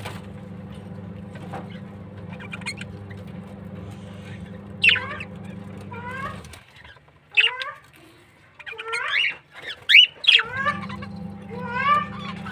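Small birds chirping, short calls sweeping up and down in pitch, a few at a time, loudest about halfway through. Under them runs a steady low hum that stops a little past halfway and comes back about four seconds later.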